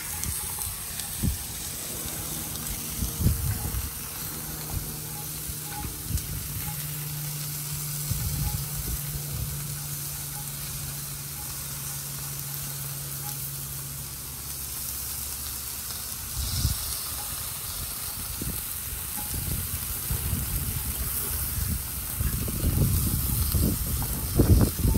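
Pork chops and a corn, bacon and pepper mix sizzling on a hot Blackstone flat-top griddle, a steady frying hiss. A low steady hum comes in a few seconds in and stops about halfway through, and low thumps and rumbling come near the end.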